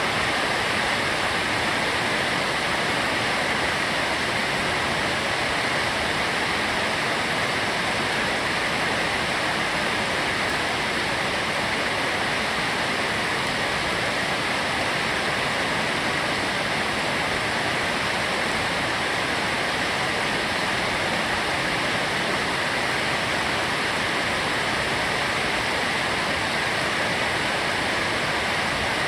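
Heavy rain pouring steadily: a dense, even hiss with no breaks or thunder.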